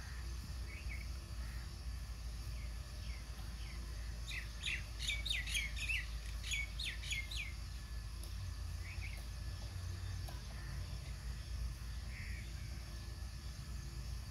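Birds chirping: a burst of quick, sharp chirps about four to seven and a half seconds in, with a few scattered calls before and after, over a steady low rumble.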